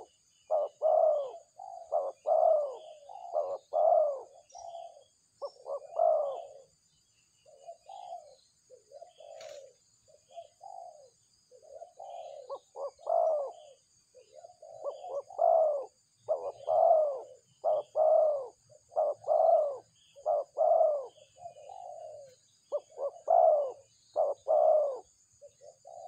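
Birds giving loud, low, hooting calls in rapid repeated series, answering one another, thinner for a few seconds in the middle. A faint steady high insect buzz runs behind them.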